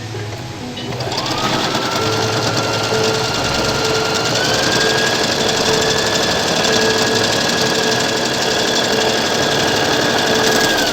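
Brother JA1400 electric sewing machine stitching cloth: its motor whine rises about a second in, steps up in speed a few seconds later, then cuts off near the end. It is a test run with the feed dogs freshly cleaned of packed lint, so the cloth feeds properly again.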